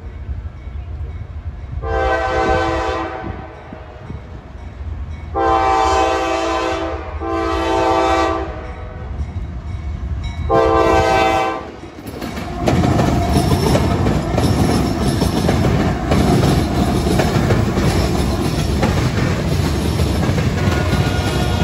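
Freight locomotive horn sounding four blasts as the train approaches. The diesel locomotives then pass close by, followed by a steady rumble of freight cars rolling along the rails.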